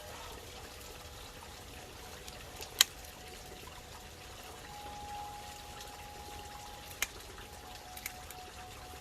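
Garden pond water bubbling and trickling steadily, with a few sharp clicks, the loudest about three seconds in.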